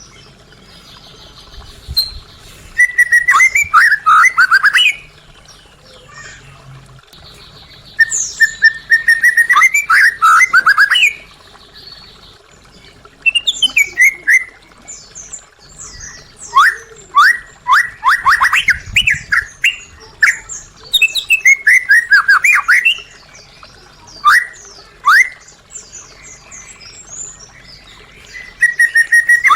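White-rumped shama (murai batu) singing in loud phrases a few seconds apart. Each phrase opens with a held whistle, then a quick run of falling notes with some high chips above.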